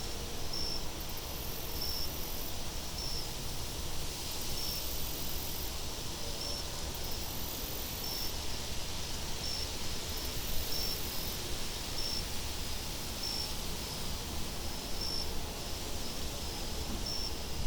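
Steady wind noise with crickets chirping, a short high chirp about every two-thirds of a second, and higher insect trills that come and go.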